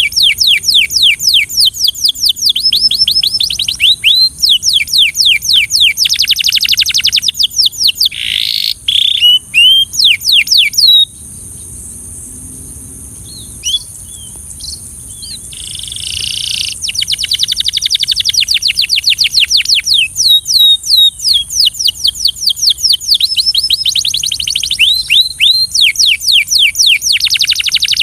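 Belgian canary singing in fast trills of rapidly repeated downward-sweeping notes. It breaks off for about five seconds near the middle, then starts trilling again.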